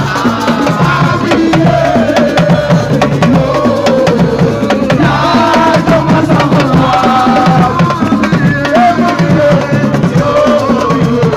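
Drumming in a fast, dense rhythm with voices singing a wavering melody over it.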